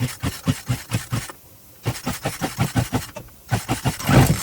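Poulan Pro 42 cc two-stroke chainsaw being pull-started: each pull of the recoil starter cord turns the engine over in a quick run of pulses, about eight a second, with short pauses between pulls and a louder spell near the end. The engine does not settle into running, even though the plug is sparking.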